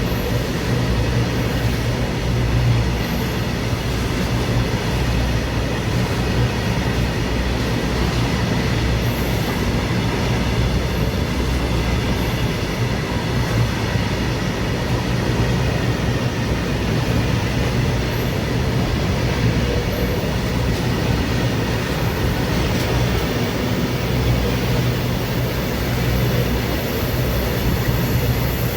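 Rajdhani Express passenger train running steadily on the track: a continuous low rumble and rolling noise from the moving coaches.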